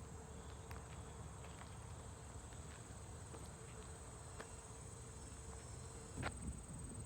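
Insects chirring steadily at a high pitch over a faint low rumble, with a single sharp click near the end.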